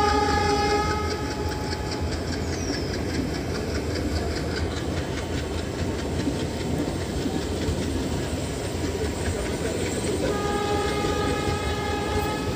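Passenger train coaches rolling past, wheels clacking over rail joints above a steady low rumble. A diesel train horn holds one long note at the start that stops about two seconds in, and sounds again for a long note near the end.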